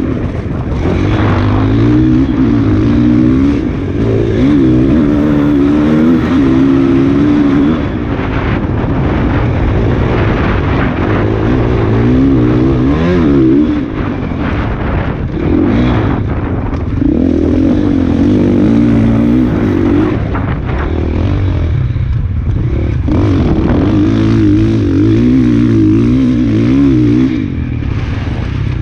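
KTM enduro motorcycle engine run hard on a trail, its pitch rising and falling constantly with the throttle, with brief drops as the throttle closes every few seconds.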